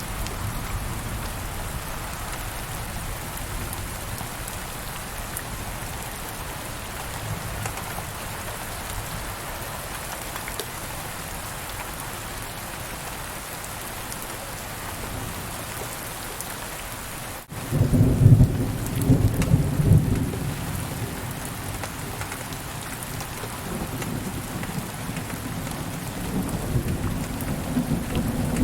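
Steady rain falling, with a loud, low rolling rumble of thunder about two-thirds of the way in that lasts a few seconds and fades, then rumbles again more softly near the end.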